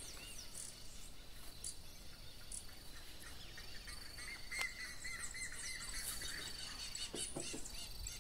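Birds chirping and calling in the background, with a quick run of repeated notes about four seconds in, over a steady thin high tone and a few faint knocks.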